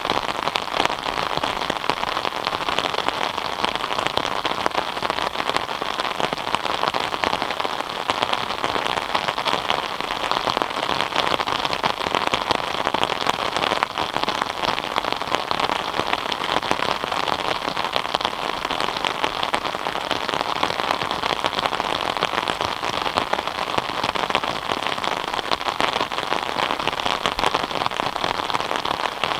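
Steady rain falling on a surface, a dense even patter of many close drop impacts.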